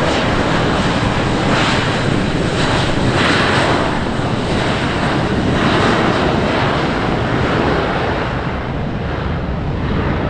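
Airplane engine noise: a loud, steady rush from an aircraft close by at the airport, easing slightly near the end.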